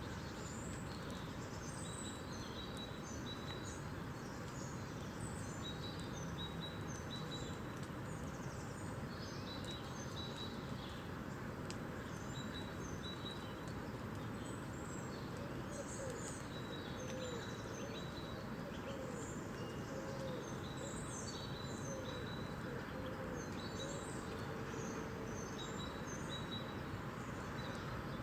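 Steady rain hiss with small birds chirping and calling throughout, and a run of short, lower repeated calls in the second half.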